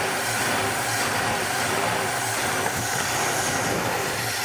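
1964 Dodge Dart's engine running steadily on starting fluid sprayed into the carburetor. It is being kept alive this way because the fuel pump has not yet pulled fuel up from the tank.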